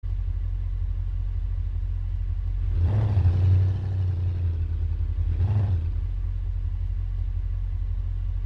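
A car on the move: a steady low rumble of engine and road noise, with two swells of broader rushing noise about three seconds and five and a half seconds in. No siren wail is heard.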